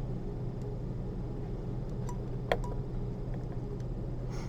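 Steady low hum of room noise, with one short sharp click from the surgical instruments about halfway through.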